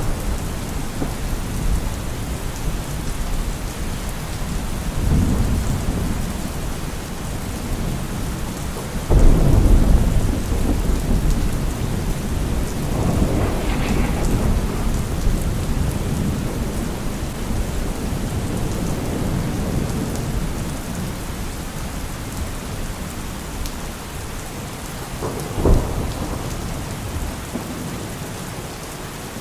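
Heavy rain falling steadily through a thunderstorm, with thunder rumbling several times. The loudest roll breaks suddenly about nine seconds in, and a short sharp crack comes near the end.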